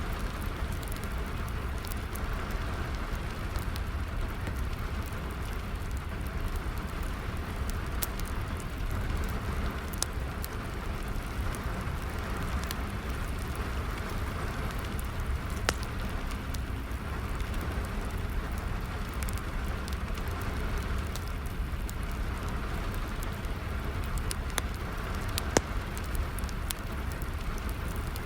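Steady rain falling together with a wood fire crackling, scattered sharp pops of the fire over an even rush of rain and a low rumble; one pop near the end is the loudest.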